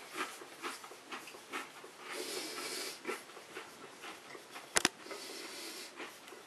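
Tortilla chip being crunched and chewed, a run of irregular small crackles. A sharp double click a little under five seconds in is the loudest sound.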